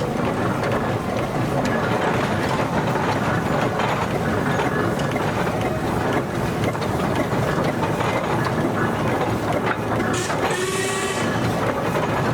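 Steam engines in a parade going past, with a steady clanking and chuffing rumble. About ten seconds in, a steam whistle blows for a second or two.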